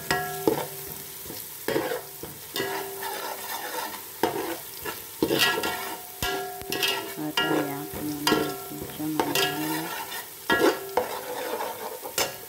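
Metal spoon stirring chopped onions and garlic frying in oil in a metal pot: a steady sizzle with frequent scrapes and clinks of the spoon against the pot. Some strikes leave a short ringing tone.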